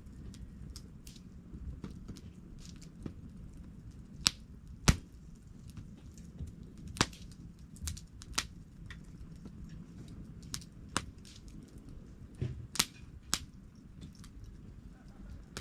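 Wood campfire crackling, with irregular sharp pops scattered through it. The loudest pops come about five seconds in and near thirteen seconds, over a low steady rumble.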